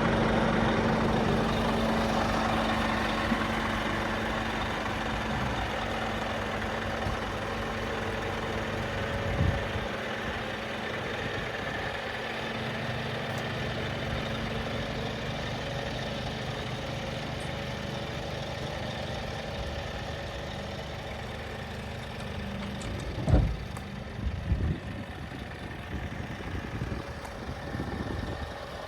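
Scania G480 hook-lift truck's diesel engine idling steadily, with a few short thumps, the loudest about two-thirds of the way through.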